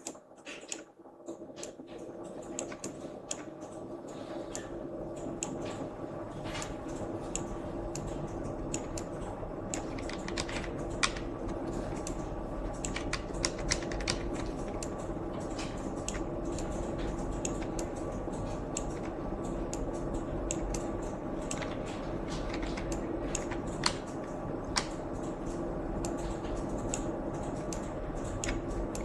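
Scattered clicks of a computer keyboard and mouse in irregular bursts, over a steady hum.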